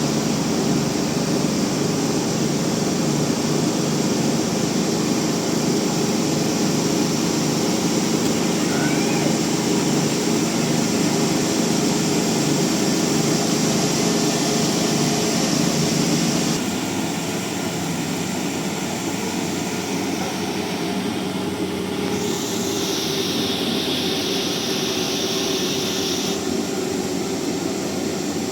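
Band sawmill running with a steady drone of motor and blade noise. About two-thirds of the way through, the sound changes abruptly and drops a little in level.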